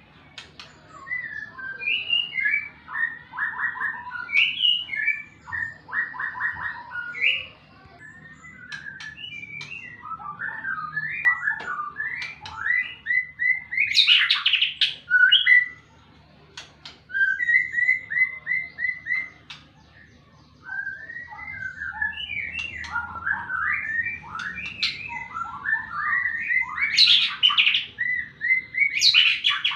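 White-rumped shama (murai batu) singing hard in long bursts of varied whistles, rapid trills and repeated notes, with short pauses between bursts. This is a challenge song, the bird freshly out of its molt and calling out to a rival.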